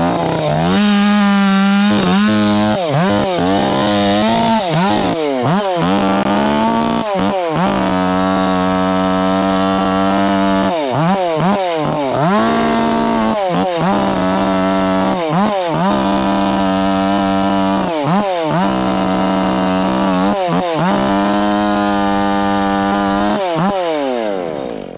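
Chainsaw limbing felled trees, run mostly at full throttle, its revs dipping and climbing back a dozen or so times between cuts. The revs fall away near the end.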